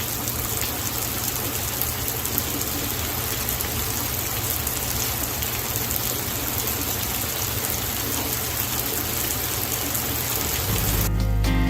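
Steady rain shower falling and pattering on surfaces, an even hiss with many small drop ticks. Music comes in near the end.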